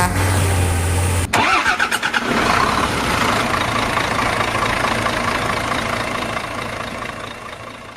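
Heavy truck engine running, with a brief rise in engine sound just after a sudden cut about a second in, then a steady run that gradually fades out.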